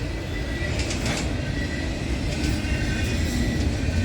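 Freight train of auto rack cars rolling past: a steady rumble of steel wheels on rail, with faint thin squealing tones and a few sharp clicks of wheels passing over the rails.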